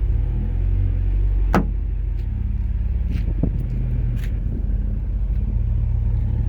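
2010 Dodge Challenger SRT-8's 6.1-litre HEMI V8 idling steadily through its Corsa performance exhaust, a low, even rumble. A single sharp click about a second and a half in.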